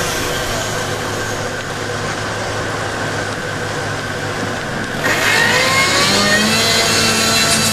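A motor vehicle engine running with a steady low hum, then revving up with rising pitch about five seconds in.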